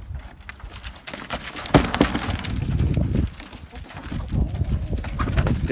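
A wooden chicken-coop door being unlatched and opened: a few clicks and knocks, one sharp knock a little under two seconds in, then a couple of seconds of rustling and shuffling.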